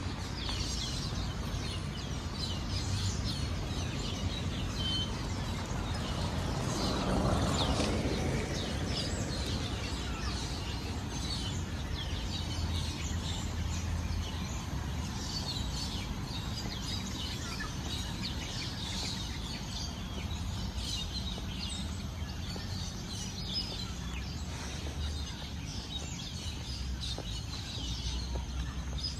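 Birds chirping, many short high calls scattered throughout, over a steady low background rumble; a brief swell of noise about seven seconds in.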